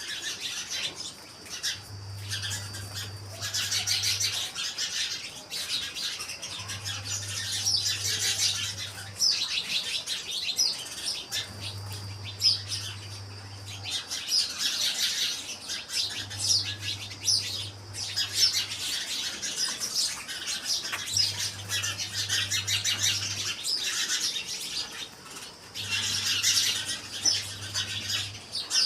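Many small birds chirping and twittering continuously, a dense chorus of short high calls.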